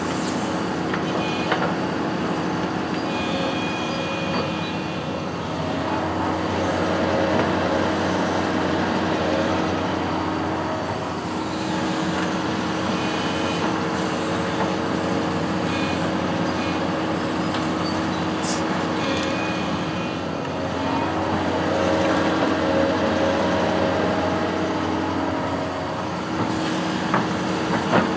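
Construction machine engine running steadily, its sound swelling and easing a couple of times as the load or revs change, with a few sharp clicks near the end.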